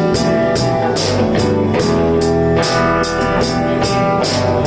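Live blues-rock band playing an instrumental passage between vocal lines: electric guitar over bass, with steady drum-kit hits and cymbals.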